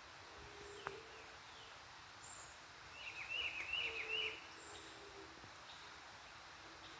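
Wild birds calling: a quick run of high, down-sweeping chirps about three seconds in, the loudest sound, over soft low hooting calls repeated throughout.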